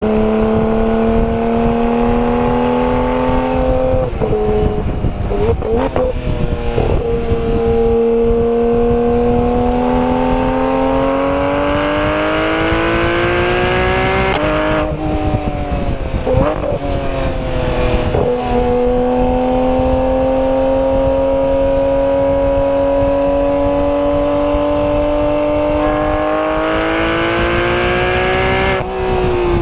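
Porsche 991 GT3 RS's 4.0-litre flat-six exhaust under load, its note climbing steadily through long pulls of several seconds and dropping sharply about four, fourteen, eighteen and twenty-nine seconds in.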